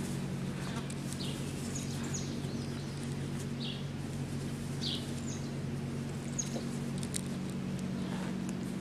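Several short, high, downward chirps, spread out a second or so apart, like small birds calling, over a steady low hum.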